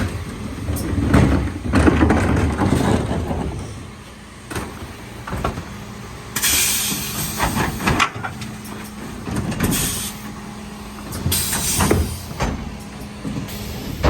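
Mercedes Econic refuse truck working: the engine runs with a steady hum. Several short blasts of hissing air and scattered knocks and clanks come over it.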